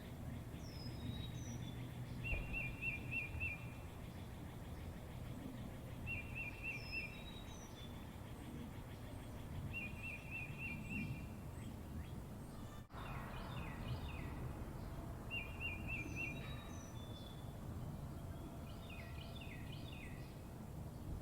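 Several songbirds singing: one repeats a short, fast trilled phrase every three to four seconds, while others give high down-slurred whistles and chirps. A steady low background hum of the outdoors runs underneath.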